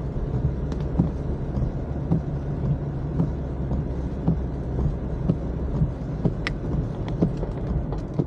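Steady low rumble of a car driving on wet roads, heard from inside the cabin, with scattered light ticks.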